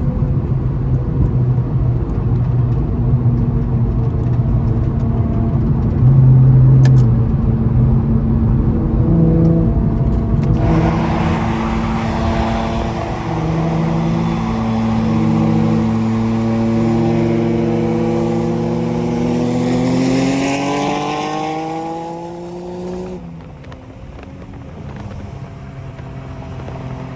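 Car engines running at highway speed, with a rushing noise joining about ten seconds in. Later one engine note climbs steadily in pitch as the car accelerates, then cuts off abruptly, as on a lift or gear change.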